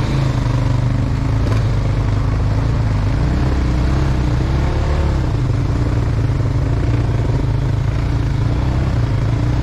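Motorcycle engine running steadily, its pitch rising and falling slightly now and then.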